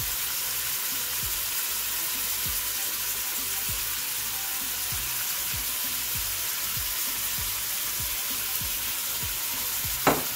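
Pieces of meat frying in hot oil in a pot, a steady sizzle, as ground spices and chopped tomatoes go in. There is a brief, sharper, louder sound near the end.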